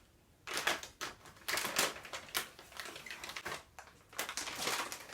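Foil snack bags crinkling as they are handled and picked up, in irregular crackly bursts.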